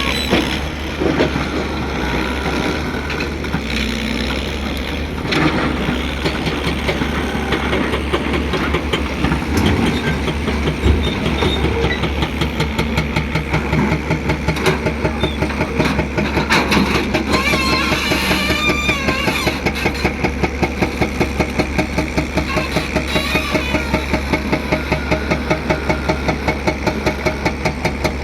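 Heavy diesel engine of the loading machinery running steadily, with scattered knocks and clatter, then settling into a fast, even pulsing beat for the second half.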